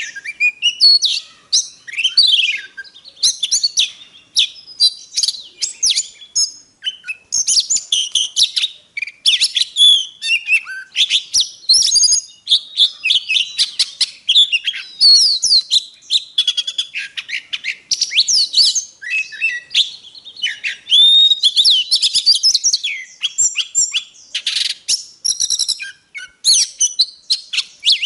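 Oriental magpie-robin singing a long, varied song of clear whistles, fast up-and-down sweeping notes and scratchy clicks, phrase after phrase with short breaks between.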